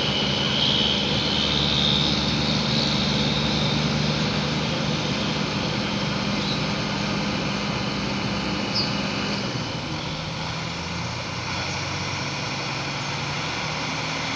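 A heavy vehicle's engine running steadily, its note dropping a little about two thirds of the way through.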